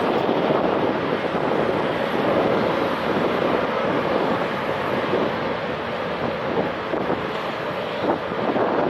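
Airliner engines at takeoff power, a steady rushing noise, with wind buffeting the microphone.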